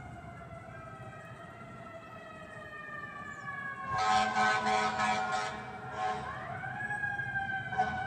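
Fire truck siren, its wail winding slowly down in pitch, then a louder pulsing blare about four seconds in; after that the siren winds back up and holds a steady high note.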